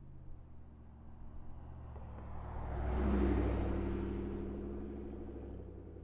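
A Cadillac Escalade's 6.2-litre V8 running steadily at low revs through an AWE 0FG true-dual catback exhaust. Its sound swells to a peak about three seconds in, then fades away.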